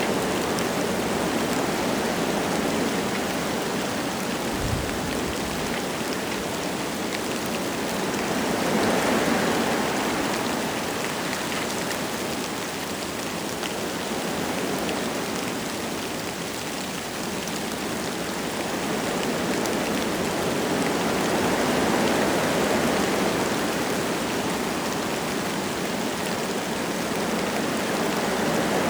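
Wind gusting through forest trees with light rain pattering, a steady rushing that swells and eases several times.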